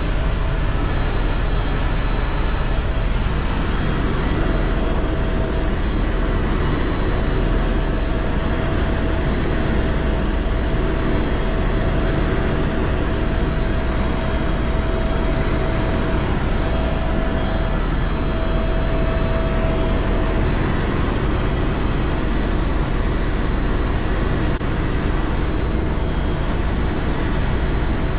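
Helicopter in flight, a steady loud drone of engine and rotor with a faint steady whine over it.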